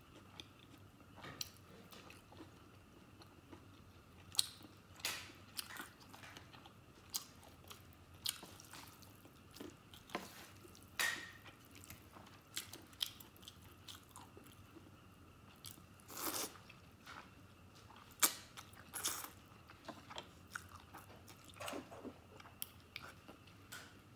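Close-miked mouth sounds of eating soft stewed fatty pork and noodles: wet chewing with irregular short smacks, often a second or two apart.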